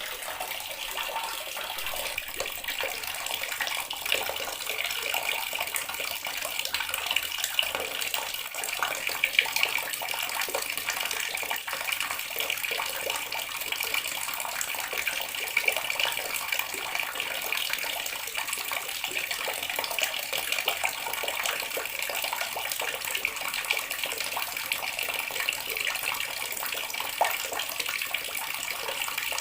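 Water running steadily from a tap, splashing as a constant hiss with no change.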